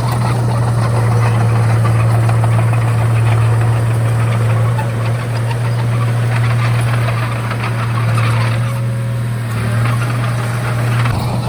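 Komatsu D31A bulldozer's diesel engine running steadily, a deep even drone.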